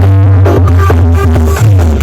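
Very loud electronic dance music with a heavy, sustained bass, played through a giant 'horeg' street sound system.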